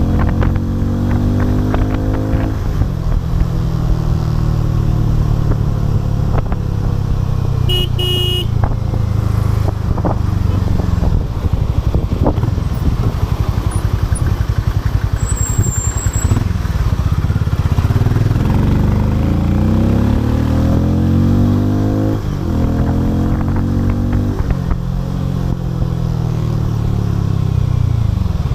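Harley-Davidson X440's single-cylinder engine under way, revving up and dropping sharply in pitch at each gear change, a couple of times near the start and near the end. Through the middle it holds a steady pitch before climbing again. A short beep sounds about eight seconds in.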